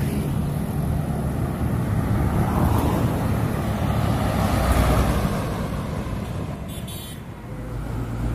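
Truck engine running amid road traffic noise, dipping briefly about three-quarters of the way through and then building again.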